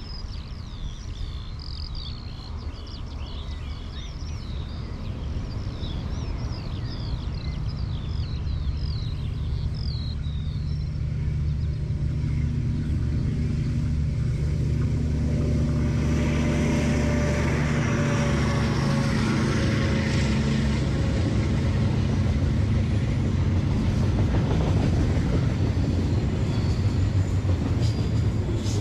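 Diesel locomotive hauling a loaded log train, its engine drone growing steadily louder as it approaches, with the rumble and rattle of the wagons on the rails building from about halfway through. Birds chirp over the first third.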